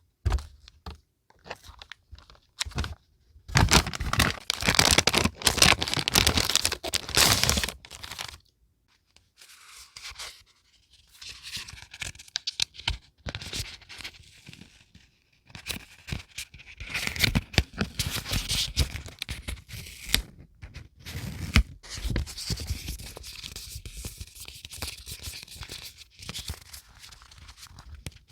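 Close-up paper and packaging handling: crinkling, rustling and tearing in irregular bursts. It is loudest from about 3.5 to 8 seconds in, then gives way to softer rustling.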